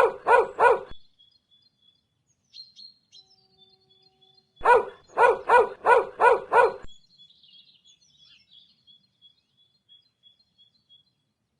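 Dog barking in two quick runs: a few barks in the first second, then about six more around five seconds in. Faint bird chirping goes on in the background.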